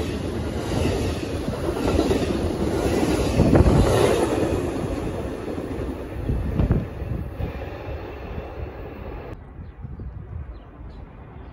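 Train passing on the tracks: rumble and wheel noise on the rails with some clatter, swelling to a peak about four seconds in and then fading away.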